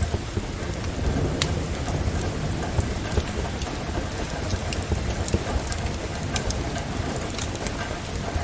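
Steady rain with a low rumble underneath. Scattered sharp crackles and pops from a burning wood fire sound over it.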